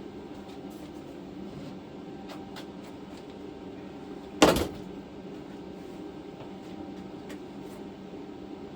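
A single loud metal clank about halfway through, with a short ring, as the welded sheet-metal piece is handled and set in place; a few faint taps and a steady low hum run underneath.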